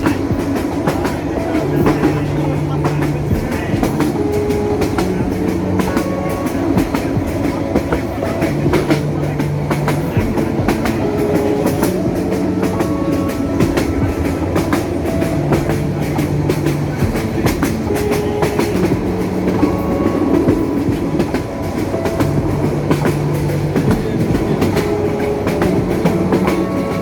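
Passenger train running along the track: a steady rumble with the clatter of wheels over the rails.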